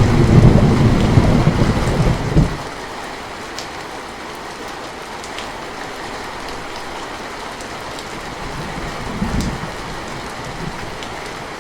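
Steady rain falling, with a loud low roll of thunder for the first two and a half seconds and a weaker rumble of thunder about three-quarters of the way through.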